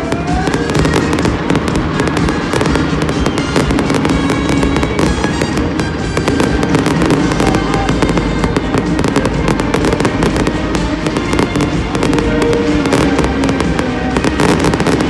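Fireworks going off in a dense, continuous barrage: many rapid bangs and crackles overlapping, with music playing underneath.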